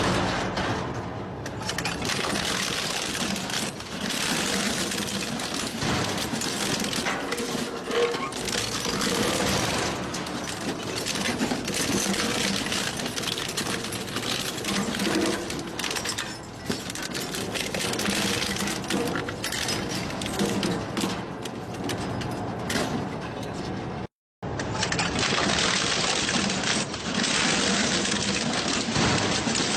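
Industrial shredder grinding and tearing through metal engine parts: a steady dense grinding full of sharp cracks, snaps and metal clatter. It breaks off for a moment about 24 seconds in, then carries on the same way.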